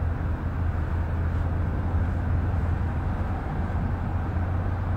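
Car engine running, a steady low drone heard from inside the cabin.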